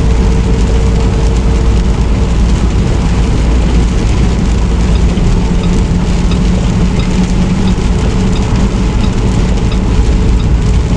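Semi truck running down the road, heard from inside the cab: a steady, loud engine and road drone with no change in pitch.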